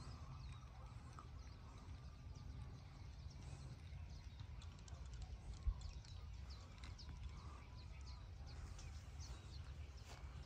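Birds chirping faintly in the trees over a low steady rumble, with one sharp thump about halfway through.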